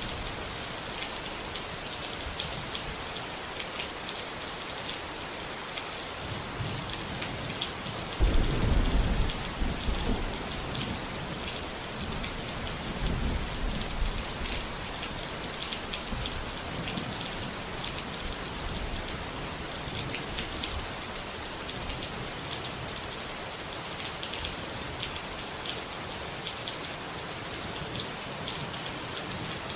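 Steady heavy rain with dense pattering. A roll of thunder starts suddenly about eight seconds in, rumbles for several seconds and dies away.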